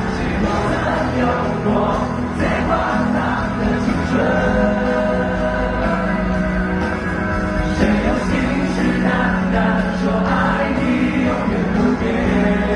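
Live pop concert music with voices singing, the band's instruments holding steady sustained tones underneath.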